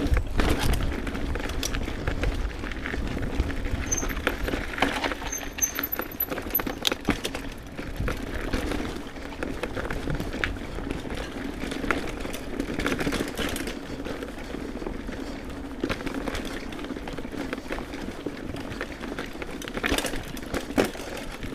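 Mountain bike rolling fast over a rough, rooty dirt singletrack: steady tyre and trail noise, with frequent knocks and rattles of the bike's chain and frame over roots and bumps.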